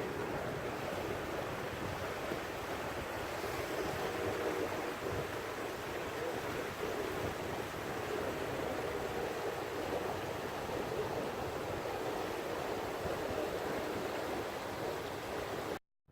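Steady rush of floodwater flowing, a continuous even noise that cuts off abruptly near the end.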